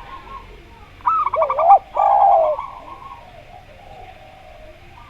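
Doves cooing: a zebra dove's rapid, stuttering run of high coos about a second in, overlapped by a lower rising-and-falling coo. A lower, held coo follows and fades out.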